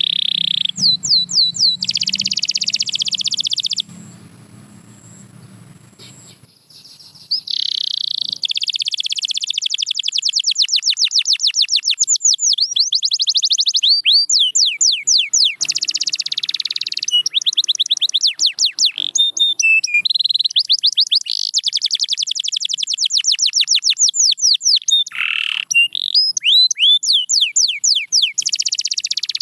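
Canary singing: long runs of fast, repeated sweeping notes and trills, with a gap of about three seconds a few seconds in.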